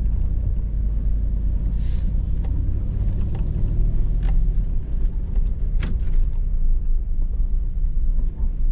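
Hummer H2's V8 engine and drivetrain rumbling steadily as it drives a rough off-road trail, heard from inside the cab, with a few sharp knocks from the truck body, the clearest about six seconds in.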